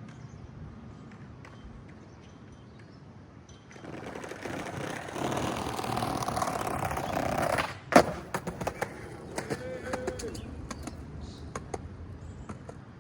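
Skateboard wheels rolling on pavement for about four seconds, ending in one loud sharp clack of the board a little over halfway through, followed by several smaller clatters.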